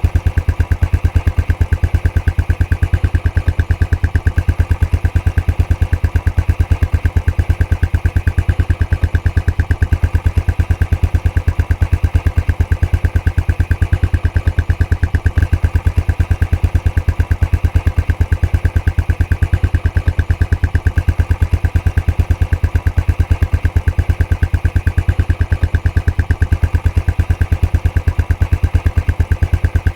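Royal Enfield Classic 500's single-cylinder engine idling through its stock exhaust, a steady, even train of exhaust beats that does not change.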